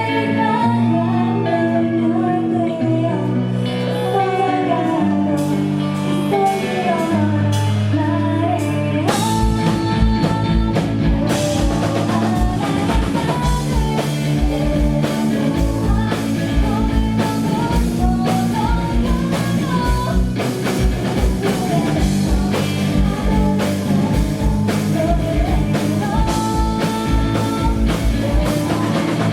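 Live rock band playing, heard from the audience in a concert hall: a sung vocal melody over sustained bass and guitar chords. About nine seconds in, the full drum kit comes in with a fast, driving kick-drum beat under the guitars.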